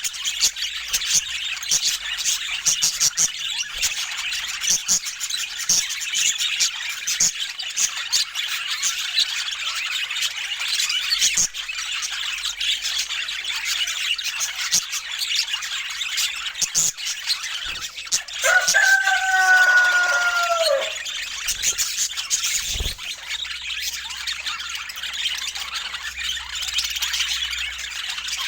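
Budgerigars chattering and warbling continuously, a dense stream of chirps with many small clicks. About two-thirds of the way through, one longer, lower call holds its pitch and then drops away, followed shortly by a low thump.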